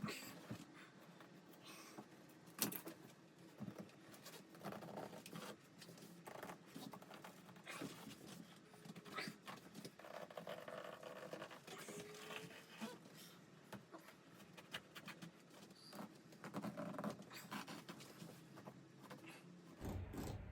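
Faint, irregular clicks, taps and rustling from hands and tools working on a truck seat.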